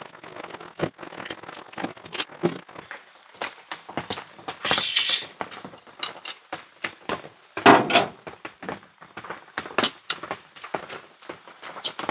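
Camp cooking gear being handled for a Jetboil stove: scattered clicks, knocks and light clattering, with a brief loud hiss about halfway through and a heavier thump a few seconds later.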